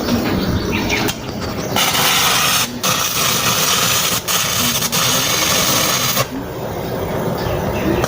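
Electric arc welding crackling and hissing, starting about two seconds in and cutting off near six seconds, with a brief break about a second after it starts.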